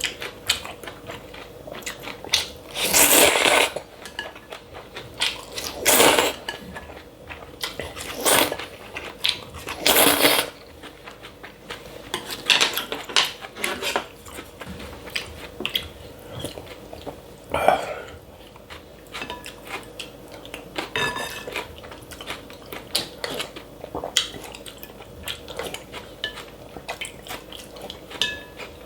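Eating from a meal of cold buckwheat noodles: utensils clicking and clinking against bowls and dishes, with about half a dozen louder noisy bursts, each under a second long. The loudest burst comes about three seconds in.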